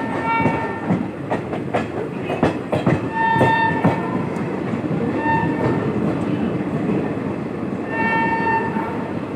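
Passenger train running on its rails with a steady rumble and clickety-clack over the rail joints. A train horn sounds several times in short, even-pitched blasts, the longest about half a second.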